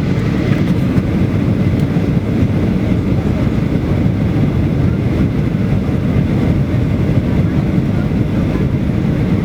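Airliner cabin noise: a steady, loud low rumble of engines and airflow, unchanging throughout.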